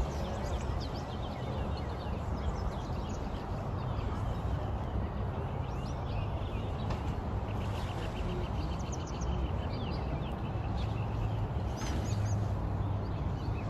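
Small birds chirping, with a rapid trill around the middle, over a steady low background rumble.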